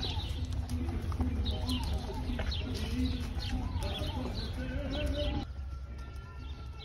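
Birds chirping: many short, quick falling calls, over lower wavering notes and a steady low rumble. The sound drops off abruptly about five and a half seconds in.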